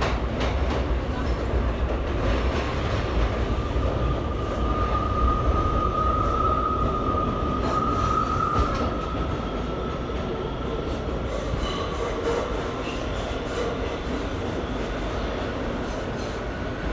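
R179 subway car running between stations, heard from inside the car: steady rumble of the wheels on the track, with a high squeal that is loudest in the first half and fades about ten seconds in.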